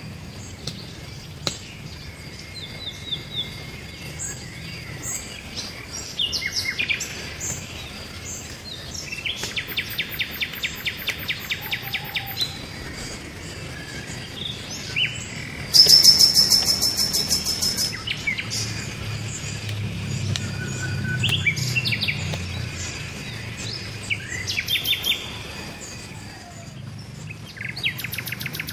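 Several birds calling and singing: short high whistles and rapid trills, the loudest a fast, high trill lasting about two seconds just past the middle.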